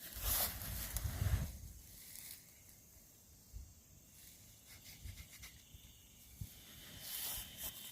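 Footsteps through dry leaf litter in woodland, pausing for a few seconds and starting again near the end, with insects chirping faintly in the background.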